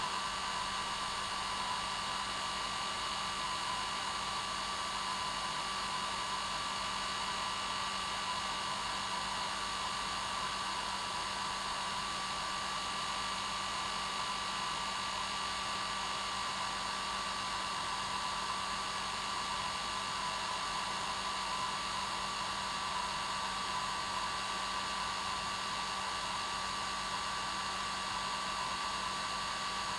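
Hair dryer running steadily: an even hiss of rushing air with a steady motor whine in it, unchanging throughout, played as white noise to help a baby sleep.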